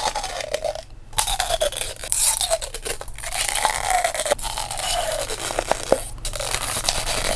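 A novelty apple-juice bottle with a layered plastic skin being bitten again and again, about five crisp crunches in a row that sound like biting into a fresh apple. The crunch comes from the plastic layers of the bottle's surface rubbing against each other as the teeth press in.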